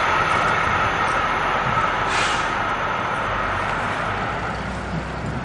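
Freight train of container wagons rolling away on a curved track. The wheel noise carries a steady high whine and fades gradually as the train recedes, with a brief sharper hiss about two seconds in.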